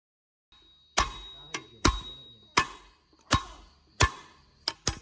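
A series of sharp strikes, each with a short ringing decay, starting about a second in, irregular at first and coming quicker near the end.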